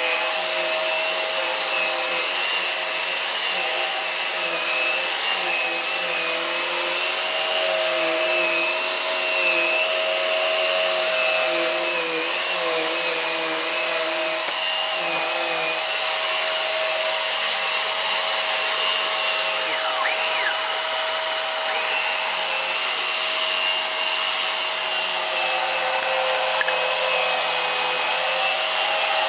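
Hoover PowerDrive Pet bagless vacuum running steadily with its brushroll spinning, its motor whine wavering slightly in pitch for the first half and then holding steady.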